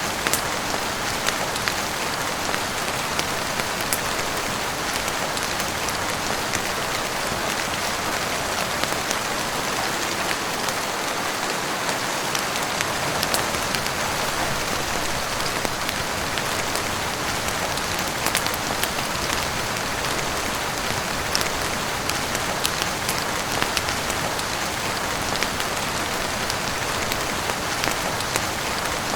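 Heavy rain falling steadily on a roof, with scattered sharp ticks throughout.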